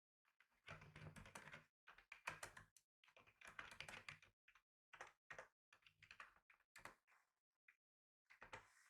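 Quiet typing on a computer keyboard: quick runs of keystrokes broken by short pauses.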